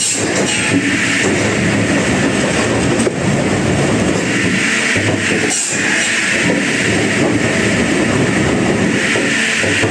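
Sawmill wood-cutting machinery running steadily, a loud continuous mechanical noise with short dips about three and five and a half seconds in.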